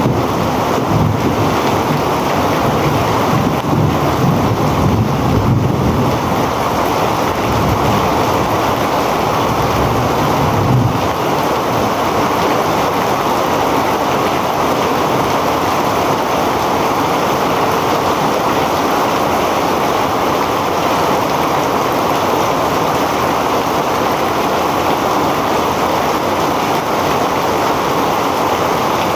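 Heavy rain falling steadily, a dense, even hiss. A low rumble runs under it for the first ten seconds or so and dies away about eleven seconds in.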